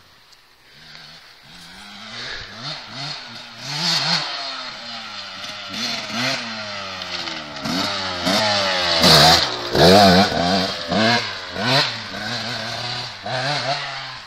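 KTM 125 SX two-stroke single-cylinder dirt bike engine revving hard, its pitch climbing and dropping again and again as it is ridden through the gears. It grows louder from a quiet start, is loudest about nine to ten seconds in, and eases off near the end.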